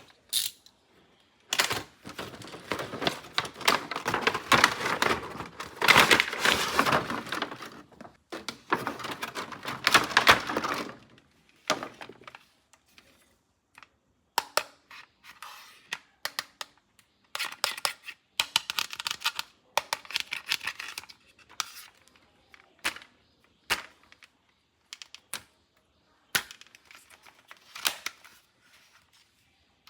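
Toy packaging being torn open and crumpled, a dense rustling for about ten seconds. It is followed by scattered sharp clicks and brief rustles as the plastic pieces are handled.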